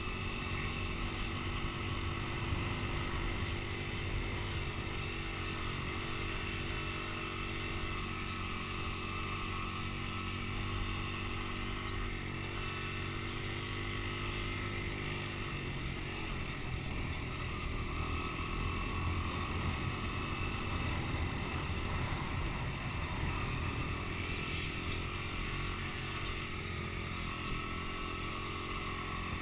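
Dirt bike engine running steadily, a constant drone with no sharp revving.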